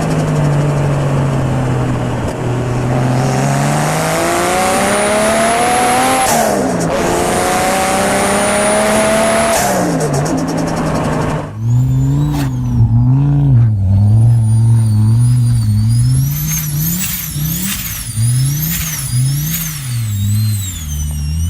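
Turbocharged car engine accelerating hard through the gears, the engine note climbing and dropping at each shift with a high turbo whistle rising alongside. About halfway in it cuts to a turbo engine being blipped again and again, its whistle rising and falling with each rev.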